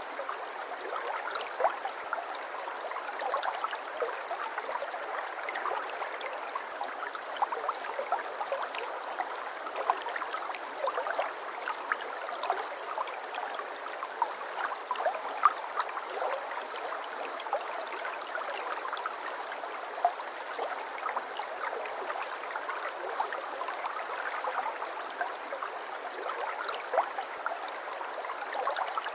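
Shallow brook babbling steadily over stones, with continuous small gurgles and splashes.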